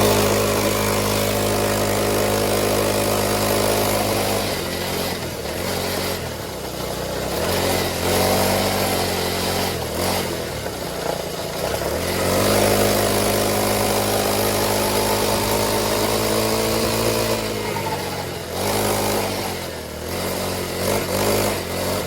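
Small motorcycle's engine running while being ridden, its pitch climbing as it speeds up several times and easing back down in between.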